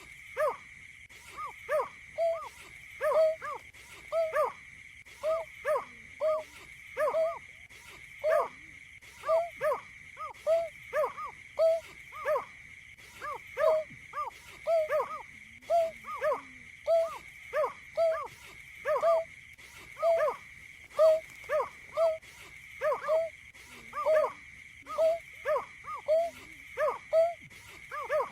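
Wetland bird calling: a long series of short, hollow, arched notes, mostly in pairs or threes, repeated at a steady pace over a continuous high thin whine.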